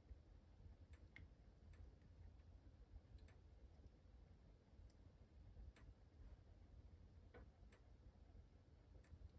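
Faint wood fire in a fireplace crackling: sparse, irregular sharp pops and snaps over a low steady rumble of the burning fire.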